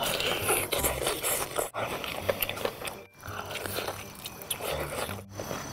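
Close-miked biting and chewing of sauce-coated fried chicken: wet smacking and crackling bites into the drumstick. Three brief dropouts interrupt it.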